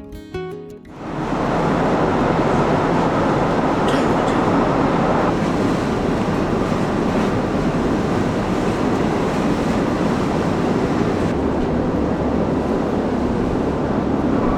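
Acoustic guitar music cuts off about a second in, giving way to the steady, loud running noise of a moving vehicle.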